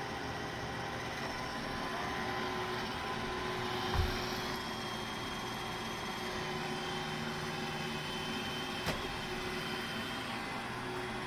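Roomba robot vacuum running, a steady whirring with a faint whine, with a dull thump about four seconds in and a short click later on.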